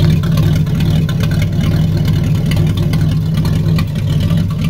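1964 Chevrolet Impala's 283 V8 idling steadily through open exhaust manifolds with no muffler, a loud, rough, uneven idle typical of an engine badly out of tune, with exhaust leaks throughout the system.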